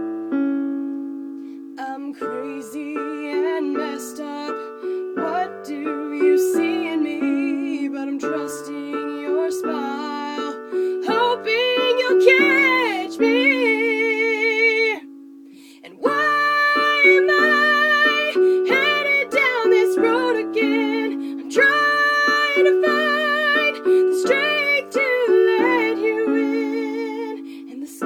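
A woman singing a slow original song with vibrato over piano accompaniment. The voice and piano drop out briefly a little past the middle, then resume.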